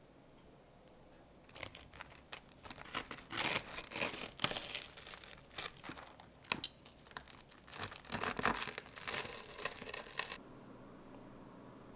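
Dry material, like paper, being crinkled and torn by hand in irregular rustling bursts, stopping abruptly near the end.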